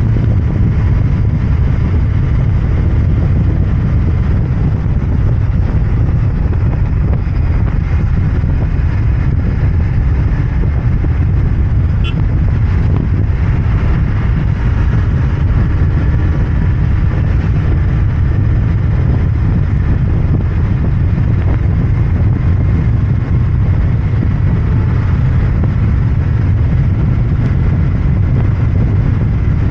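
Royal Enfield Interceptor 650's parallel-twin engine and exhaust running steadily under way at a fairly even speed, with a deep low note.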